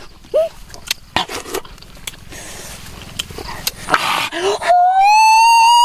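An animal's long, loud, high-pitched whine that starts about a second before the end and rises slightly, after scattered clicks, scrapes and short squeaks.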